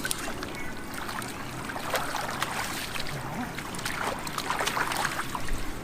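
Shallow muddy floodwater sloshing and splashing as someone wades and gropes for fish by hand, with many small irregular splashes.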